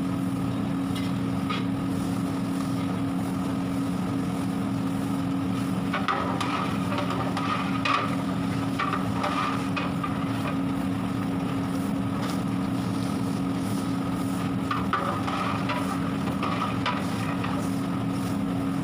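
Steady low mechanical hum with two constant tones, like a small motor or fan running, with brief faint clatters now and then.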